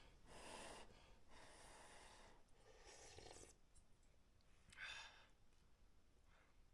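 Near silence with a person's faint breathing: several soft, breathy exhales, the loudest about five seconds in.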